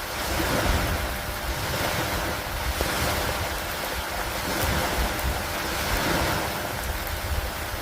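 Steady rain falling on a wooden dock with wind: a continuous hiss over a low rumble that swells and eases every couple of seconds.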